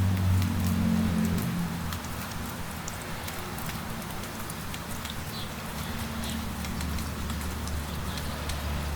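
Light rain falling steadily, with scattered drops ticking close by, over a low rumble that fades about a second and a half in and returns more weakly later.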